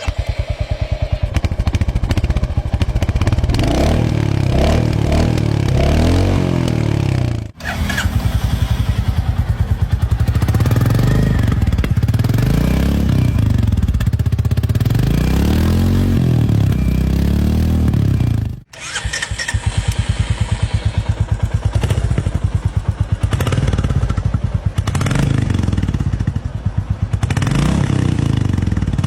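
Royal Enfield motorcycle exhausts in three back-to-back clips, each engine idling with a fast, even pulse and revved up and down several times. The sound cuts off abruptly and switches to the next bike about a quarter and two thirds of the way through.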